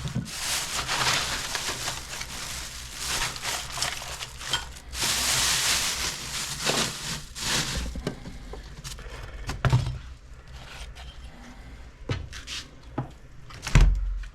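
Dog food and feeding bowls being handled: dense rattling and scraping for several seconds, loudest from about five to seven and a half seconds in, then a few scattered knocks and a low thump near the end.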